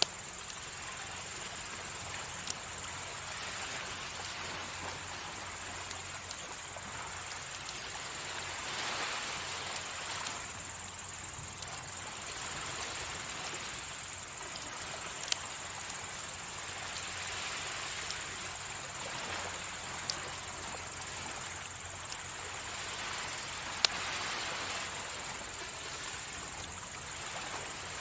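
Wood fire crackling with scattered sharp pops, over sea waves washing onto the shore in slow swells, with a steady high-pitched hum throughout.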